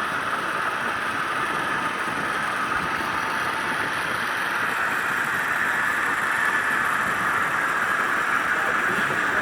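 Long model train with ten powered model locomotives running on the layout track: a steady whir of the locomotive motors and wheels rolling on the rails, growing slightly louder toward the end.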